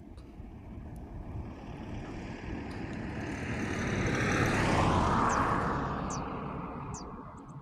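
A vehicle passing by, growing steadily louder to a peak about five seconds in and then fading away, its pitch dropping as it goes past.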